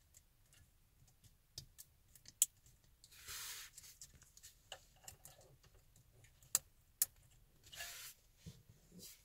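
Plastic wiring-harness connectors being handled and plugged together behind a car head unit: scattered sharp clicks, a few of them loud, and two brief rustles.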